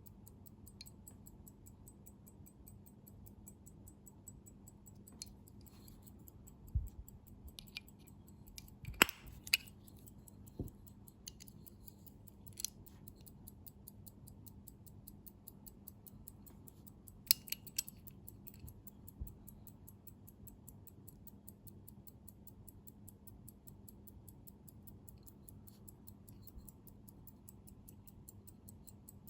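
Omega pocket watch ticking fast and steadily, with a few sharper clicks and taps of handling scattered through the first two-thirds.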